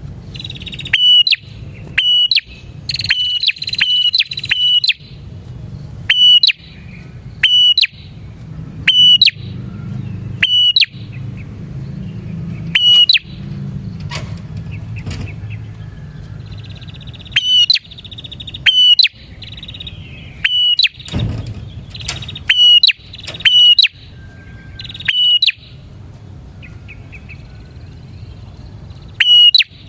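Prinia (prenjak) calling repeatedly: loud, sharp chirps about one every second or two, with bursts of buzzy trilling in between.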